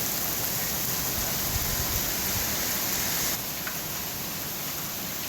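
Heavy rain pouring down steadily in a thunderstorm downpour. About three seconds in it drops a little quieter.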